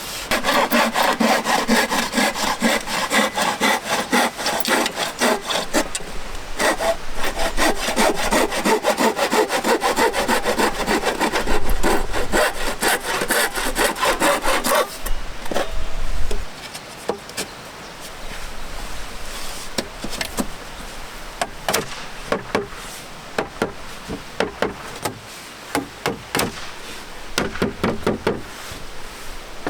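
A saw cutting through wood in fast, steady strokes for about fifteen seconds, then slower, scattered and quieter strokes for the rest.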